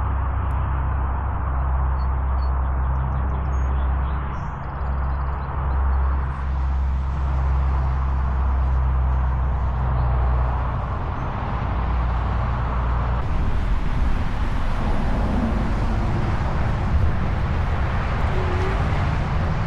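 Wind rushing and buffeting over the camera's onboard microphones while the e-trike is ridden, with a steady low rumble and hiss and no clear separate events.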